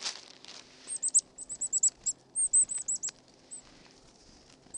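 Small birds giving quick runs of very high, short chirps, each note hooking downward, starting about a second in. They pause near the end, then start again. A brief rustle comes right at the start.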